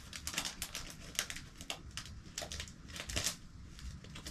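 Packaging crinkling as small packets of stickers from a toy kit are opened by hand, with many quick irregular crackles.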